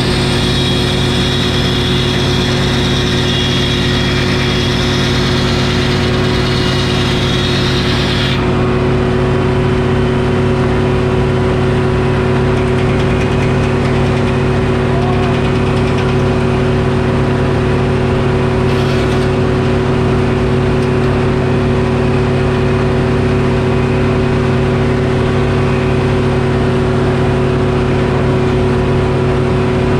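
Detroit Diesel engine running steadily, powering a Frick sawmill. A higher, hissing layer over the engine stops suddenly about eight seconds in.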